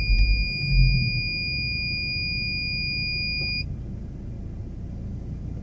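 A steady, high-pitched electronic beep tone, held unbroken and cutting off suddenly about three and a half seconds in, over a low vehicle rumble.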